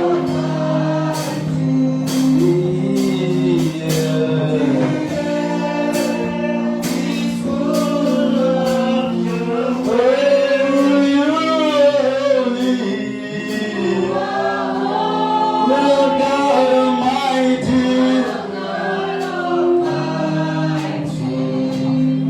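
Gospel worship music: a group of voices singing a slow song over sustained keyboard chords, with light percussion.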